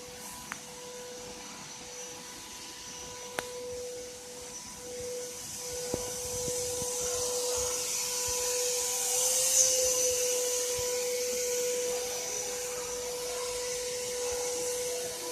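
Double-head CO2 laser cutting machine running: a steady hum with a hiss that swells about halfway through and eases off, and a few faint clicks.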